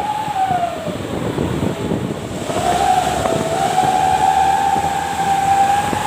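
Truck air horn blowing a long, slightly wavering single tone over engine and road noise; the tone sags and fades about a second in, then comes back about two and a half seconds in and holds steady.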